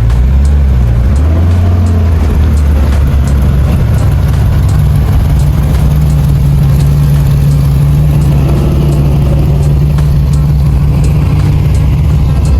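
Car engine running, with a loud, deep, steady note that shifts a little in pitch in the first couple of seconds and then holds steady.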